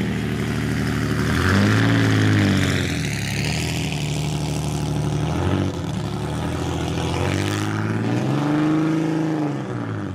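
1932 Riley Brooklands race car engine revving as the car pulls away. The pitch swells and falls back about a second and a half in and again near the end, with uneven running between.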